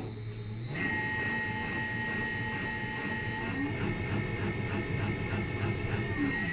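Shock absorber dynamometer starting up and cycling the rebuilt motorcycle rear shock. It gives a steady high whine over a fast, even clatter of about four strokes a second, and stops abruptly near the end.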